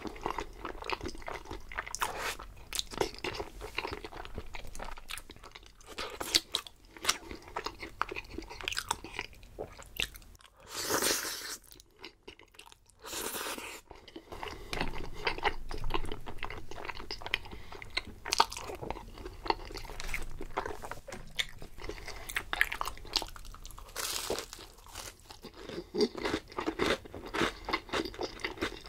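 Close-miked eating sounds: bites into crispy fried food and crunchy chewing, with many quick crackles.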